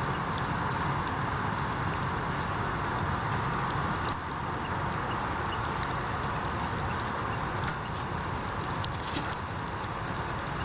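Wood campfire crackling in a stainless fire grill: many small snaps and pops over a steady hiss, with a few louder pops near the end.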